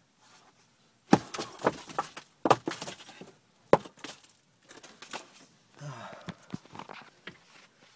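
Sharp cracks and pops from a house's structure as it settles down about an inch, with smaller crackling snaps between them. The three loudest cracks come about one, two and a half, and nearly four seconds in.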